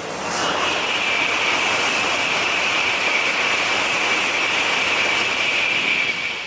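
Tokaido Shinkansen N700-series bullet train passing at high speed: a loud, steady rushing roar that swells in about a second in, holds for about five seconds and starts to die away near the end.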